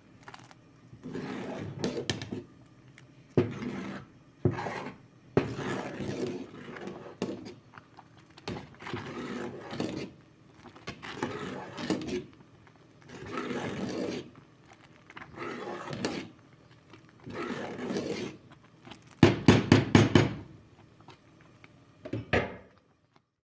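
Repeated scraping and knocking in short bursts, about one every second or two, with a quick run of five or six sharp knocks near the end.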